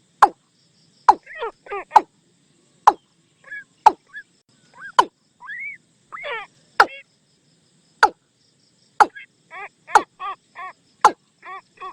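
Watercock calling as a decoy call for luring the birds. Short, sharp knocks come about once a second, with clucking, arched notes between them that settle into an even run of about three a second near the end.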